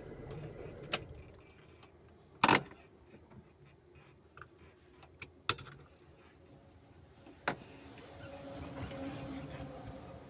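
A passing road vehicle's hum fades out, then a few sharp knocks sound a couple of seconds apart, the loudest about two and a half seconds in; another vehicle's engine hum rises near the end.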